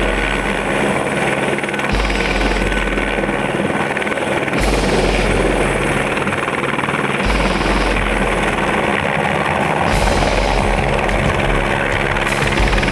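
Helicopter running steadily.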